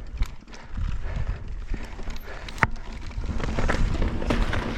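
Mountain bike rolling over slickrock, with irregular knocks and rattles from the bike and a low rumble from the tyres, and one sharp knock about halfway through.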